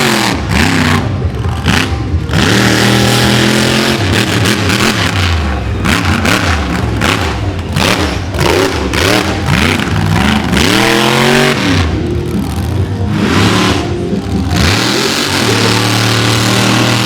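Monster truck engine revving loud, again and again, its pitch climbing and dropping with each blip of the throttle, then holding steady near the end.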